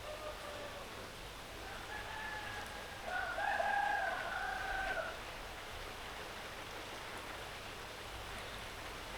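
A rooster crows once, about two seconds in, with a long held note that ends about five seconds in, over steady rainfall.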